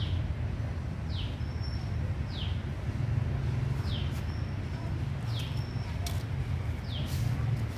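A small bird calling a short, high, falling chirp over and over, about once every second and a half, over a steady low rumble.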